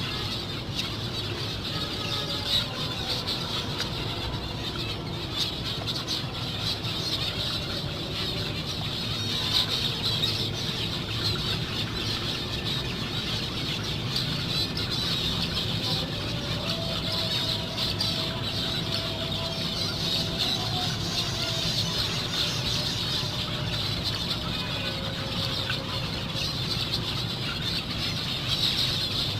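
A colony of zebra finches calling continuously: many overlapping short, nasal calls, with a steady low hum underneath.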